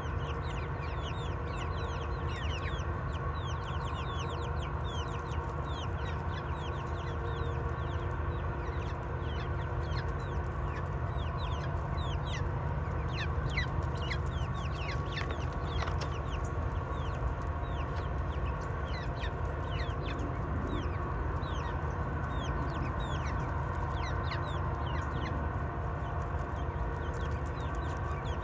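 Flock of hens clucking, with many short, quickly falling calls scattered throughout, over a steady low background rumble.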